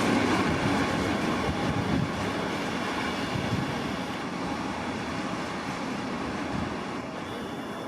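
Train passing through a station, its rumble and wheel noise fading steadily as it moves away.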